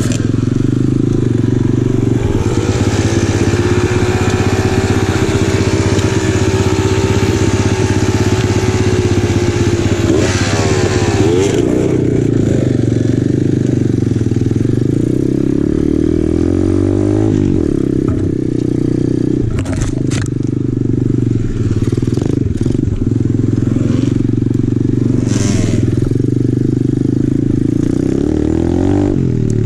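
Apollo RFZ 125cc pit bike's single-cylinder four-stroke engine running under way, its revs rising and falling several times with the throttle and gear changes. There are a few sharp knocks and clatters from the bike over rough ground.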